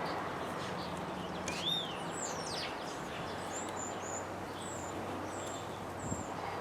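Birds chirping over a steady background hiss: a few rising-and-falling whistles about two seconds in, then a run of short, high chirps.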